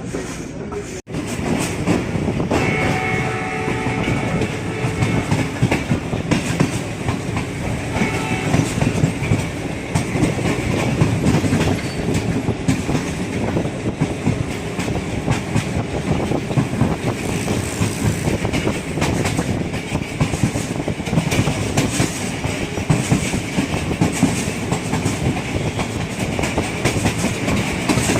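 Passenger train running along, heard from inside a coach, with its wheels clattering over the rail joints. A horn sounds briefly about three seconds in.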